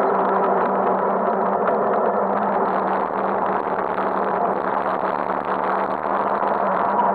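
Motorcycle engine running at a steady speed while riding, with a dense rushing noise over it, picked up by a handlebar-mounted camera.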